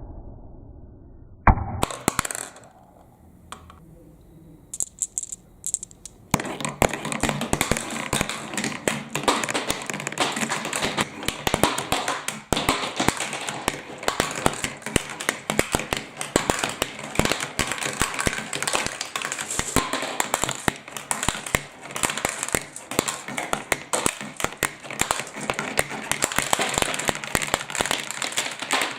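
Balls on a plastic marble run: a sharp knock and a few scattered clicks, then from about six seconds in a dense, continuous clatter of many balls rolling and knocking down the track.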